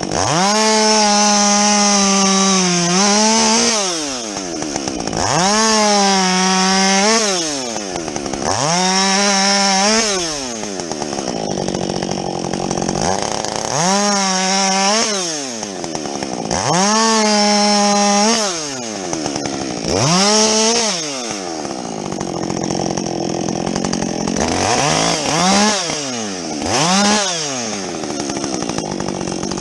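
Husqvarna 562XP two-stroke chainsaw with a modified muffler, revved to full throttle about eight times and dropped back to idle in between, as it bucks a felled tree into lengths. The pitch sags slightly while each burst holds high.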